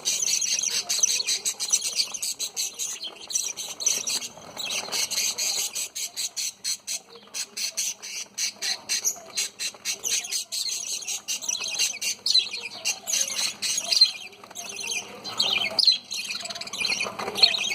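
Flock of budgerigars chattering and warbling, with many quick clicks mixed through the chatter.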